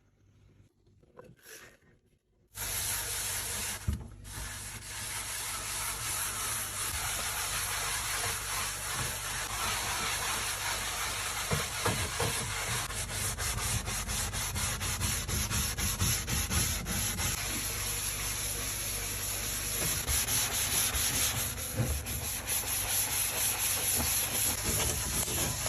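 Steady, rapid scrubbing of a hard surface during fridge cleaning, starting suddenly about two and a half seconds in and running on as continuous rubbing strokes.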